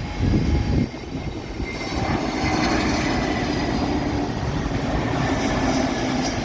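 Azul airliner landing, its engine noise a steady rumble that grows louder about two seconds in and then holds.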